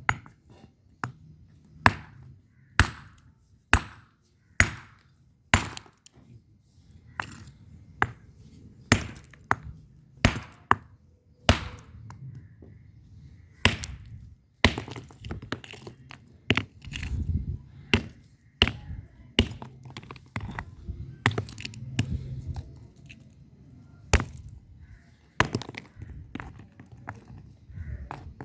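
Red bricks knocked against each other over and over, making sharp hard clacks about once a second at uneven spacing, many with a brief high ring.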